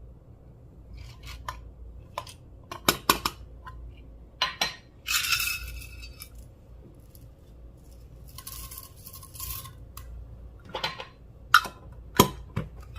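Small hard containers clicking and clinking as they are handled and set down, with two short hissing passages about five and nine seconds in, like grains being shaken or poured.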